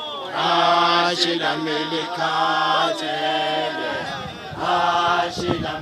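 A group of voices singing unaccompanied in chant-like phrases, holding chords for about a second at a time, with a short break about four seconds in.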